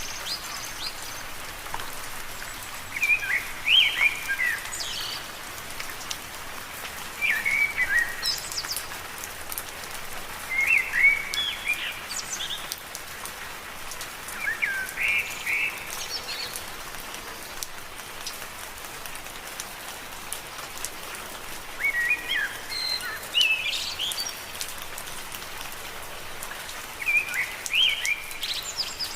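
Steady gentle rain falling on leaves, with short chirping bird calls repeating every few seconds over it and a quiet stretch without calls midway.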